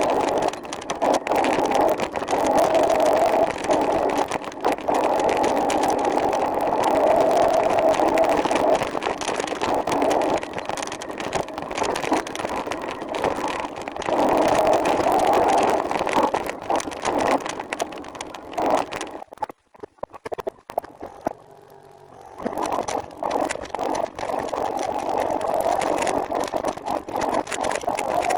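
Steady road and wind noise from riding a recumbent trike, with a wavering hum in it. It drops away briefly about twenty seconds in, then picks up again.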